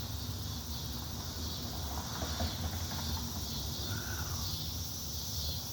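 Cicadas droning in a steady, gently pulsing high chorus over a low rumble, with one short higher note about four seconds in.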